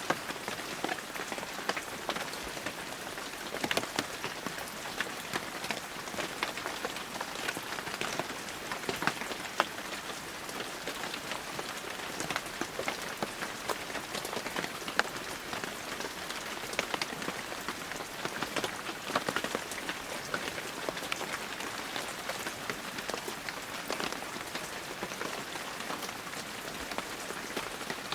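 Heavy rain falling steadily, a dense hiss of rain with many individual drops ticking sharply on near surfaces.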